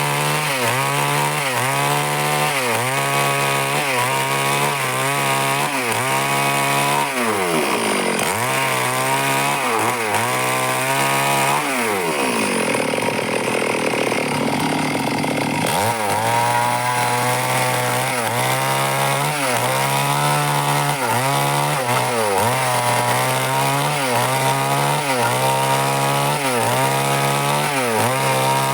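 Stihl chainsaw running under load cutting wood, its engine pitch dipping and recovering about once a second as the chain bites. About halfway through, the steady note breaks into a rougher stretch for a few seconds before the rhythmic cutting resumes.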